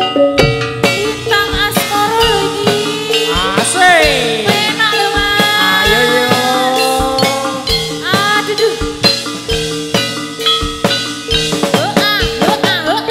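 Live Javanese folk-dance music, topeng ireng style: steady drum strokes and percussion under sustained pitched tones, with a singing voice sliding between notes.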